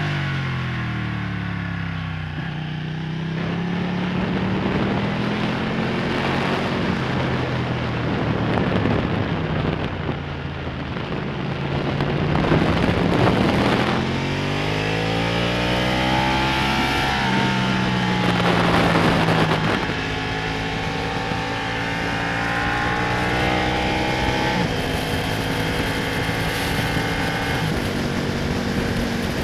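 Ducati Panigale's V-twin engine heard onboard over wind rush, its pitch rising and falling several times as it accelerates and slows, with a sudden jump in pitch about halfway through. In the last third it runs more steadily, stepping up in pitch a few times.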